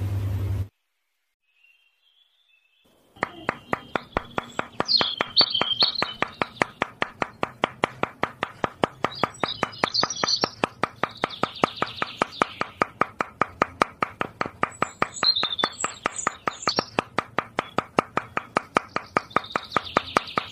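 Brief music that cuts off, a couple of seconds of near silence, then a small machine starts a rapid, even knocking, about five knocks a second over a low steady hum. Birds chirp over it throughout.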